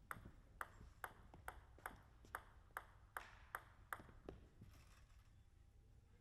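A table tennis ball clicking against the table and bat: about a dozen light, evenly spaced clicks, just over two a second, stopping a little over four seconds in.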